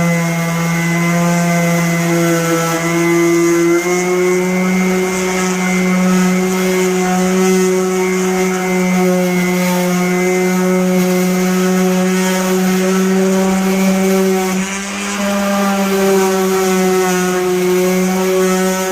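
Power sander running steadily against car body panels, a loud even hum that shifts slightly in pitch about 4 and 15 seconds in.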